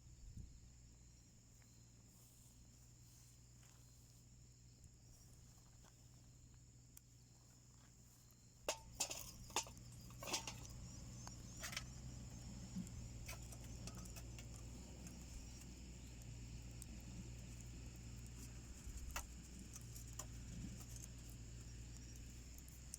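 Small wood fire burning in a homemade wood stove: a few sharp crackling pops about nine seconds in, then a steady low rush of the fire with scattered snaps.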